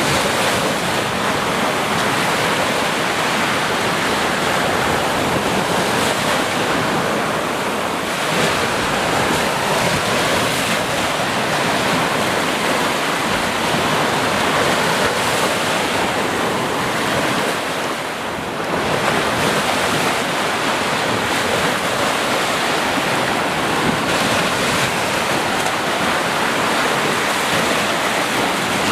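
Sea surf: waves breaking and washing in a continuous, fairly even rush, with a brief lull about eighteen seconds in.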